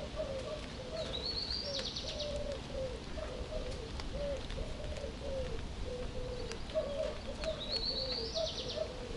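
Birds calling: a continuous run of short, low cooing notes, and twice a higher songbird phrase that rises and ends in a quick trill, over steady low background noise.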